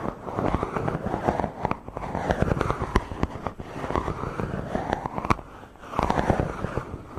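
Microphone being rubbed close up for ASMR: slow repeated strokes of scratchy, crackling friction noise, about four swells that each build and fade over a second or two.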